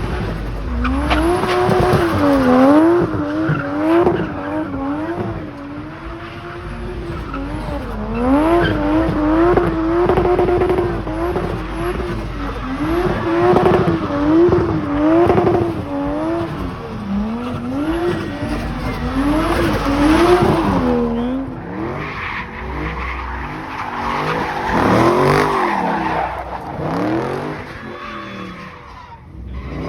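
Car engine revving up and down over and over, with tires squealing as the car slides in donuts. The revs swing about once a second, then turn more ragged in the last few seconds.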